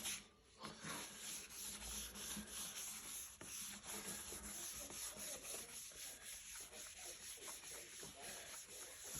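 Faint rubbing of a wet wipe over the plastic shell of a motorcycle luggage case, in quick repeated back-and-forth strokes, applying a trim-coat restorer.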